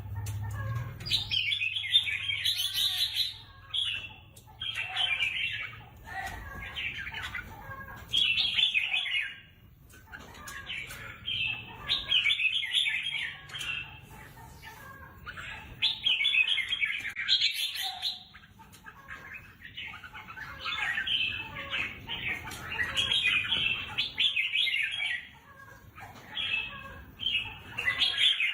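Red-whiskered bulbul singing: quick, warbling phrases in bursts of a second or two, one after another with short pauses between them.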